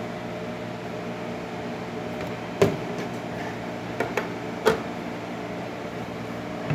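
Rancilio Rocky coffee grinder, freshly fitted with new burrs, running with a steady motor hum while grinding coffee. A few sharp knocks sound over it, the loudest about two and a half seconds in and more at around four to five seconds.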